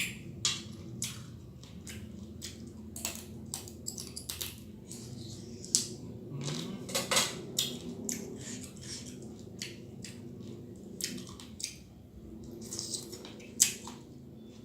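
Blue swimmer crab shell cracking and crunching as the crab is eaten: a long, irregular series of sharp cracks and crunches.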